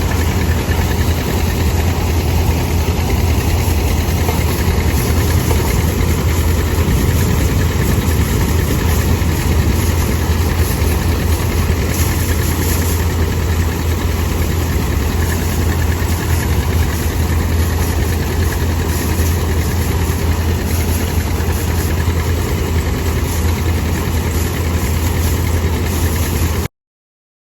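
Tractor engine running steadily at idle, a low even chug, until it cuts off abruptly about a second before the end.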